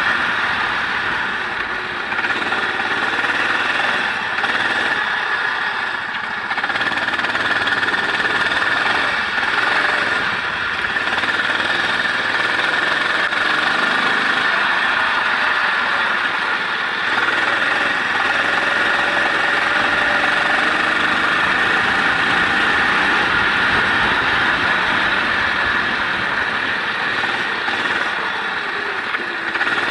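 Onboard sound of a vehicle's engine lapping a race circuit, its pitch rising and falling with throttle and gear changes, under a steady rush of wind and road noise.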